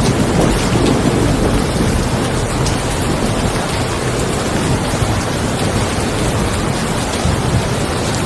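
Steady rain with a low rumble of thunder that eases off over the first couple of seconds.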